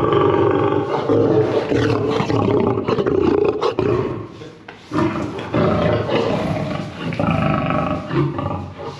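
A big cat roaring and growling in long, rough bouts, breaking off briefly about four and a half seconds in and then starting again.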